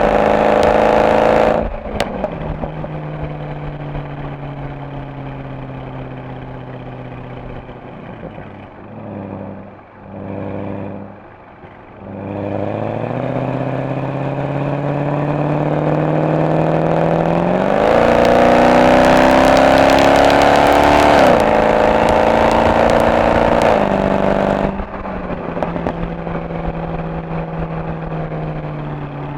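Mercedes-AMG SL63's V8 exhaust on the road: a hard pull at the start cuts off a couple of seconds in, and the engine note sinks slowly as the car coasts. Past the middle the note climbs again into a loud, rising pull that ends abruptly about four seconds from the end, then it settles to a steady cruise.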